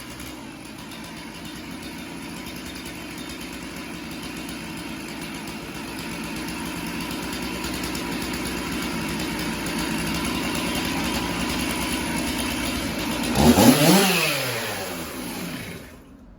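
Two-stroke chainsaw bucking a hickory log under load, its chain dull and loose, slowly growing louder. Near the end the engine revs up sharply and winds back down as the cut finishes, then the sound cuts off suddenly.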